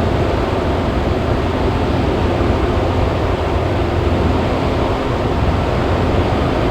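Cessna 172's four-cylinder piston engine and propeller droning steadily in flight, mixed with rushing airflow noise, at the high power of a climb-out.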